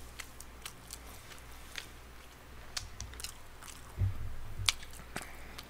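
Close-miked mouth sounds of a person chewing a mouthful of food: soft wet smacks with a few sharp clicks, and a low thud about four seconds in.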